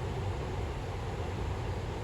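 Heavy rain falling steadily on an inflatable tent: a dense, even hiss over a low rumble.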